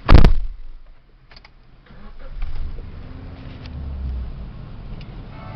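A car door slams shut, cutting off the door-open warning chime; about two seconds later the car's engine starts and settles into a low, steady idle.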